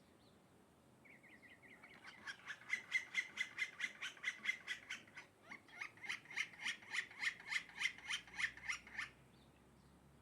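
A bird calling a long, rapid series of repeated notes, about four a second. The series starts faintly about a second in and stops abruptly about nine seconds in.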